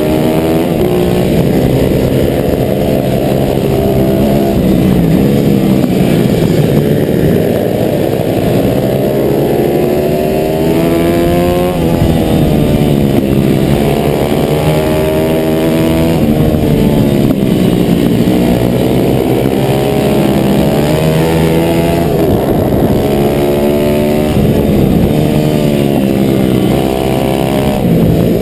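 A 140cc four-stroke single-cylinder pit bike engine at racing speed, heard on board. The revs climb and drop off again and again as the bike accelerates out of corners and backs off into them.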